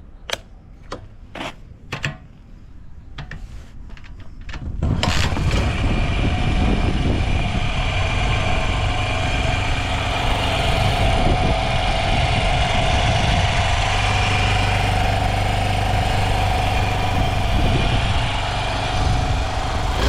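A Honda Ape 50's single-cylinder four-stroke engine being cold-started: a few sharp clicks, then it catches about five seconds in and idles steadily, with no abnormal noise.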